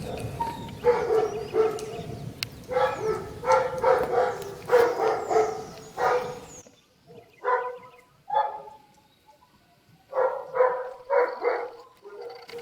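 A dog barking over and over in runs of several barks with short pauses between them. A low rushing noise runs under the first half and cuts off suddenly about halfway through.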